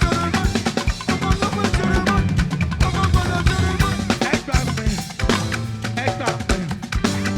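Live gospel band playing an upbeat groove: drum kit with bass drum and snare on a steady beat under bass guitar and keyboard.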